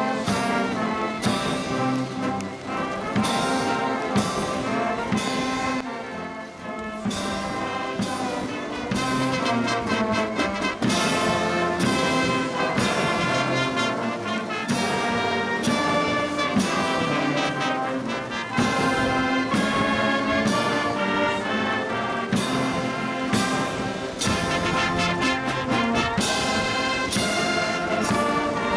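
Cadet brass band playing, with held brass notes carrying a melody.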